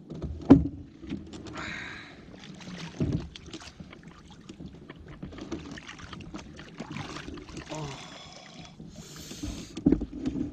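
Canoe being handled in the water: irregular knocks and thumps against the hull, with brief splashes of water.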